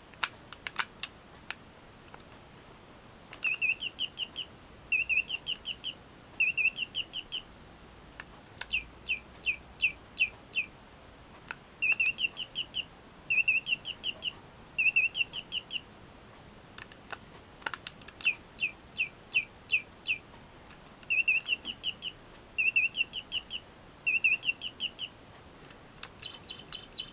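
Electronic chirping from a McDonald's Robo-Chi toy bird: short high chirps in quick runs of three or four, repeated in groups with pauses between. A few sharp clicks come near the start, about two-thirds of the way in and near the end.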